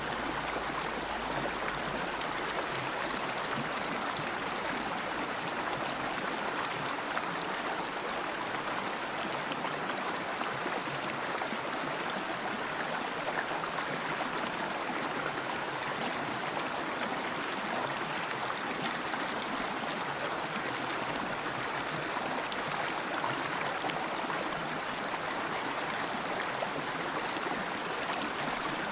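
River water flowing steadily over rocks: an even, unbroken rushing with some gurgling.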